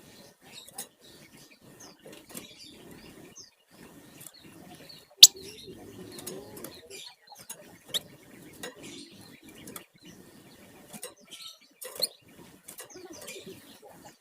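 A flamboyan songbird's scratchy, irregular chattering and rattling calls, broken by sharp clicks, the loudest about five seconds in, with a stretch of fluttering just after it.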